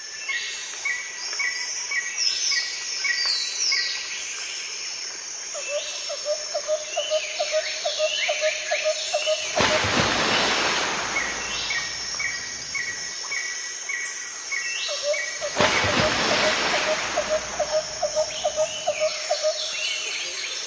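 Birds chirping and calling, with a fast pulsing trill and two rushing swells of noise about ten and sixteen seconds in.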